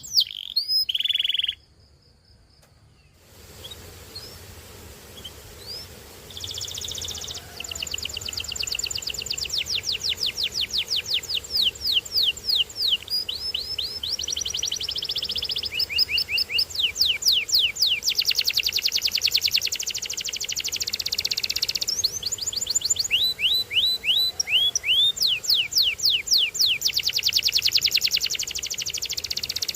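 Domestic canary singing: fast rolling trills of rapidly repeated, downward-sweeping high notes, phrase after phrase with short pauses between them. The sound cuts out briefly about two seconds in before the song picks up again.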